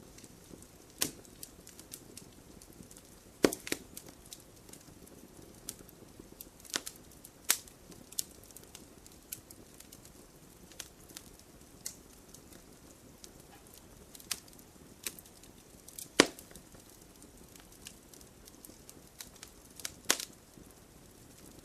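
Wood bonfire crackling: irregular sharp pops and snaps over a soft steady hiss, with a few much louder pops scattered through.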